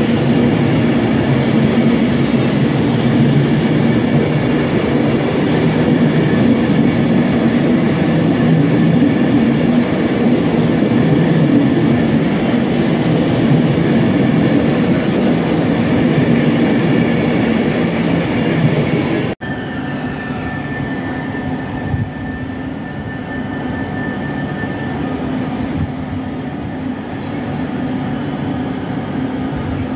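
An Avanti West Coast train runs past at the platform edge with a loud, steady rumble and wheel noise on the rails. About two-thirds of the way through, the sound cuts abruptly to a quieter Class 390 Pendolino electric train approaching slowly, with a thin steady whine.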